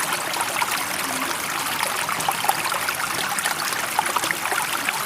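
Running water, steady and even, trickling and babbling with many small splashes.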